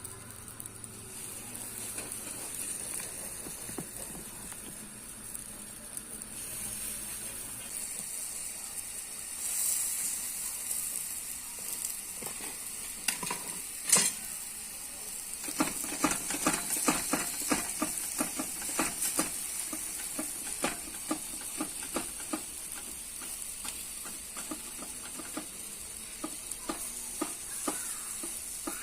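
Bread sizzling on a hot hand-made metal baking pan, a steady high hiss. After one sharp click about halfway, a run of quick light taps and clicks follows, several a second.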